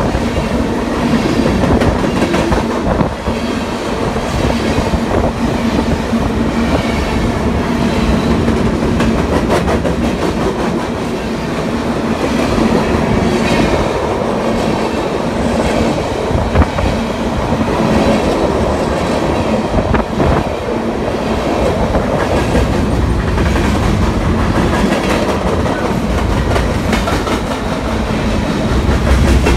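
Covered hopper cars of a freight grain train rolling past close by: a loud, steady rumble of steel wheels on rail with repeated clicking of wheels over the rail joints.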